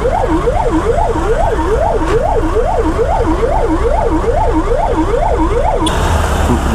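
Emergency-vehicle siren in fast yelp mode, its pitch sweeping quickly up and down about two and a half times a second over a steady low rumble, cutting off about six seconds in.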